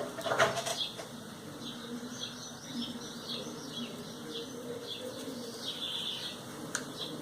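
Small birds chirping repeatedly in the background, with a few sharp clicks and knocks in the first second.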